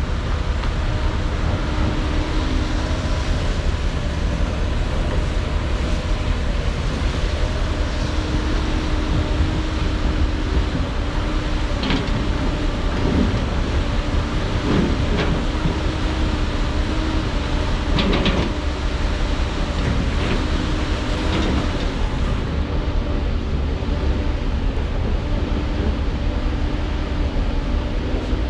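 Heavy diesel construction machinery, most likely the excavator, running steadily with a deep rumble and a held hum, with scattered metallic clanks and knocks, the loudest about 18 seconds in.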